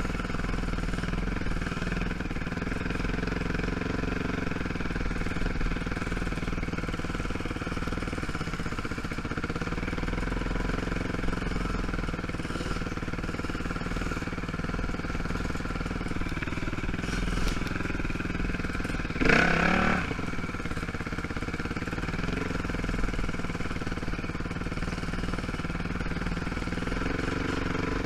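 ATV (quad) engine running steadily at low trail speed, with a brief louder burst about two-thirds of the way through.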